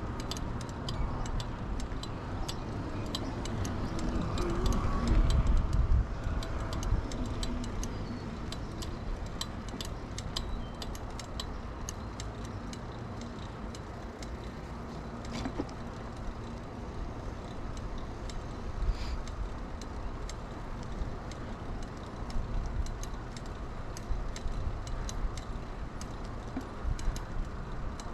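2000 Kona Blast mountain bike being ridden, its rear freewheel ticking rapidly while coasting, over a steady low rumble of tyres and wind that swells about five seconds in.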